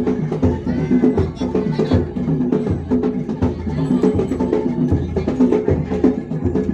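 Live Bantengan percussion music: rapid repeated pitched strokes in a gamelan-style pattern over a low drum beat.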